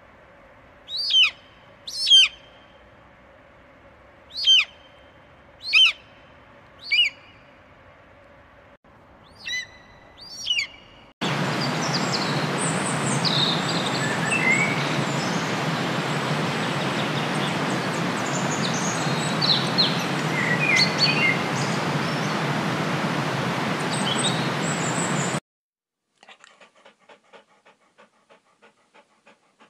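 A bald eagle gives about seven high, thin whistled calls, each falling in pitch. About eleven seconds in, a steady rushing noise cuts in with small birds chirping over it, and stops suddenly near the end. Soft rhythmic panting of Labrador puppies follows, about two breaths a second.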